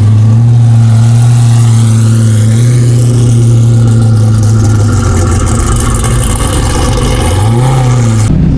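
A car engine running loudly at a steady low pitch, with a brief rise and fall in revs near the end before the sound cuts off.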